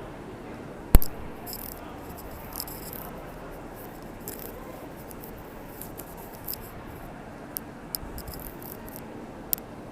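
A steady background hiss with one sharp, loud click about a second in, then a few lighter ticks later on.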